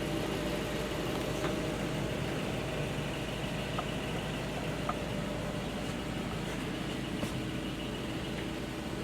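Blue Bird Micro Bird school bus engine idling steadily, heard from inside the bus, with a few faint small clicks.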